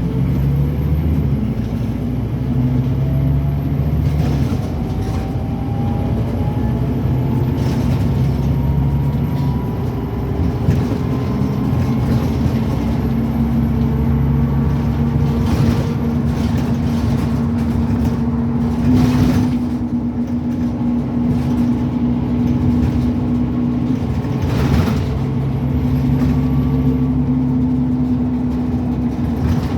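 Scania N270UD OmniCity double-decker bus's five-cylinder diesel engine working hard under acceleration, heard from on board. A whine climbs in pitch over the first ten seconds, then holds steady, with a few brief knocks about halfway through and near the end.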